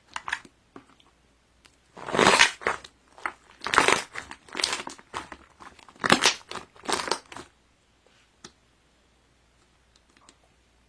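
Crinkling, rustling handling noise in a run of loud, noisy bursts, clustered from about two seconds in until a little past the middle, then stopping.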